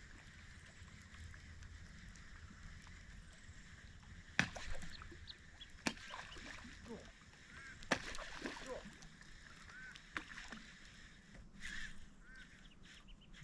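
Three sharp knocks, like gear striking a kayak hull, with short bird calls over a steady high hiss.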